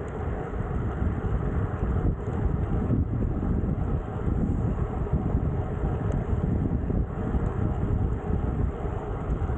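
Steady low rush of wind buffeting the microphone of a camera carried on a moving road bike.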